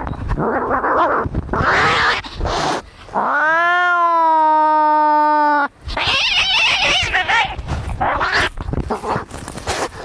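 Cats fighting: harsh, noisy hissing and screeching, broken about three seconds in by one long yowl that rises at its start, holds steady for over two seconds and cuts off sharply, before the screeching resumes.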